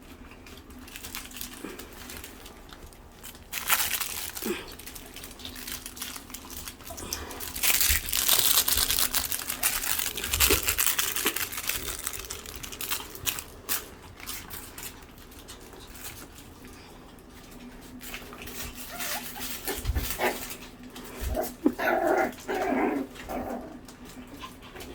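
Havanese puppies playing, with rustling and scratching bursts as they move about, and a few short high puppy yips near the end.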